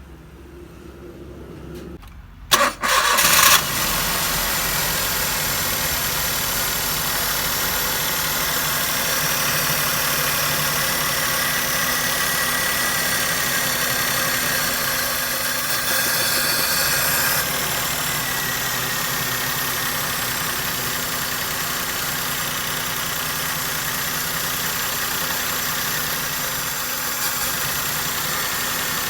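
Maruti Suzuki K-series petrol engine cranked and starting about two and a half seconds in, then idling steadily, a little louder for a second or so past the middle.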